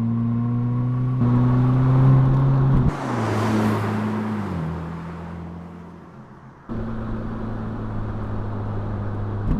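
Mercedes-AMG SL 43's turbocharged 2.0-litre inline four-cylinder (M139) engine and exhaust running steadily. The revs rise briefly from about a second in, then drop off sharply near three seconds with a rushing noise, and the pitch falls as the sound fades. Near seven seconds it cuts back abruptly to a steady drone.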